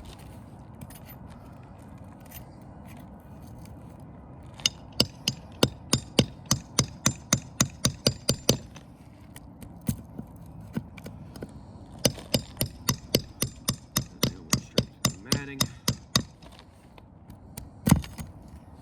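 Two runs of quick hammer blows, about four a second and each lasting about four seconds, then a single heavier blow near the end, as asphalt ridge cap shingles are worked loose on a roof hip.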